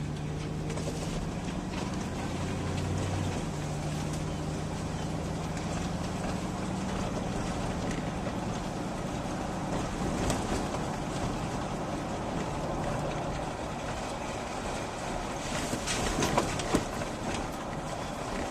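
A motor vehicle running, with its engine humming and steady road noise. A few sharp clicks come about three-quarters of the way through.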